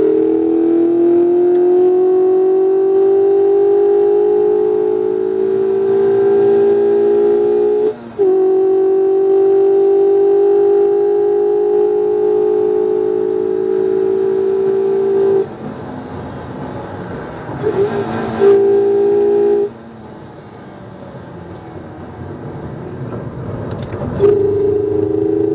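2019 Mazda MX-5 RF's 2.0-litre four-cylinder engine under hard acceleration, heard from inside the cabin. It climbs in pitch, dips for an upshift about eight seconds in, and holds steady at high revs. Around fifteen seconds in it drops off as the driver lifts and brakes, with a couple of short rev blips on the downshifts, then comes back on the throttle near the end.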